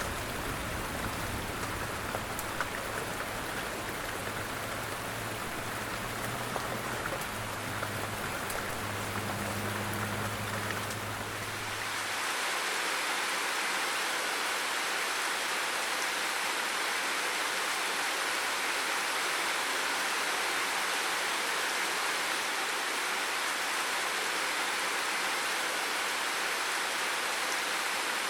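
Steady rain-like water patter with a low hum beneath it. About 12 seconds in it cuts abruptly to a smoother, brighter, slightly louder rush of water.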